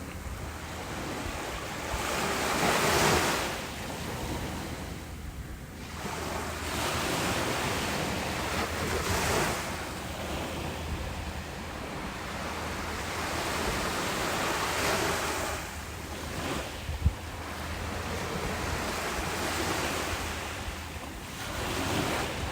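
Ocean waves breaking on a beach, the surf swelling and ebbing every few seconds, with wind buffeting the microphone.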